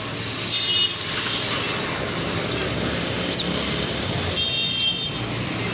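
Steady rumble of vehicle traffic, with short high chirps about once a second and two brief high ringing tones.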